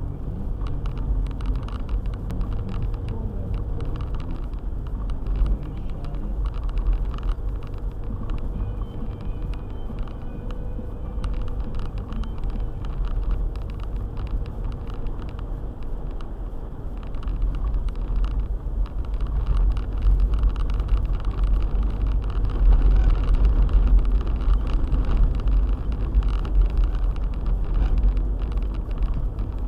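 Four-wheel-drive car driving on a snow-covered road: a steady low rumble of engine and tyres, growing louder for a stretch about two-thirds of the way through.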